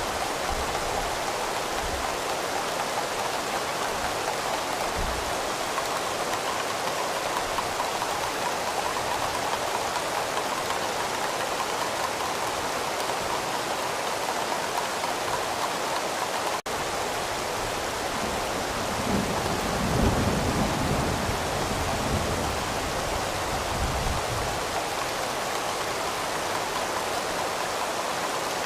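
Steady, even rainfall. A low rumble swells briefly about two-thirds of the way through, and the sound drops out for an instant a little before it.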